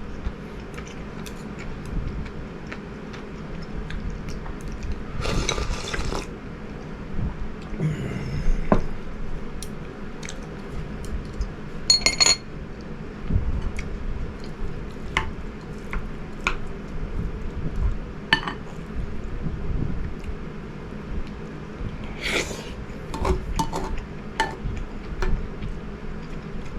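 Eating from a dish: utensils clink and scrape against it in scattered light clicks, with a few brief louder scrapes.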